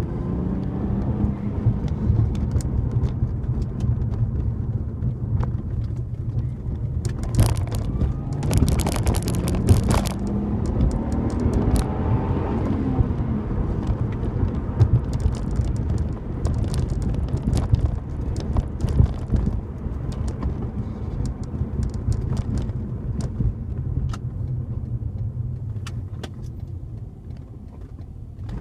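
Lexus IS200's straight-six engine heard from inside the cabin, accelerating with its pitch climbing in several separate pulls over a steady rumble of road noise. About seven to ten seconds in there is a spell of hissing noise, and the sound grows quieter near the end.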